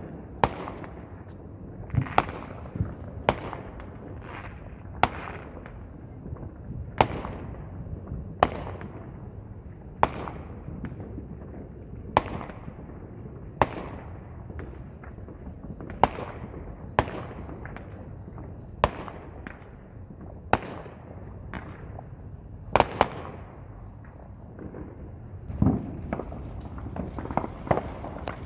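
Fireworks going off: sharp bangs about one to two seconds apart, each fading in a short echo. A quicker cluster of crackling pops comes near the end.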